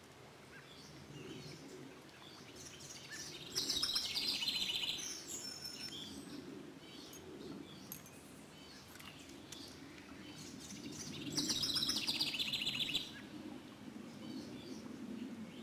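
A songbird singing two loud, rapid trilling phrases, one about three and a half seconds in and another about eleven seconds in, with softer chirps between, over the steady low rush of a flowing stream.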